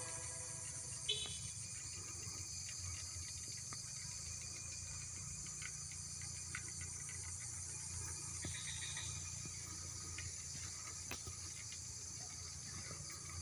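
Faint steady high-pitched insect chirring over a low background hum, with a few faint clicks.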